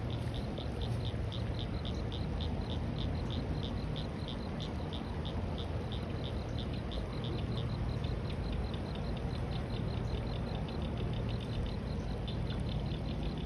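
A cricket chirping in a steady, even rhythm of short high chirps, about three to four a second, a little quicker near the end, over a constant low rumble of breeze on the microphone.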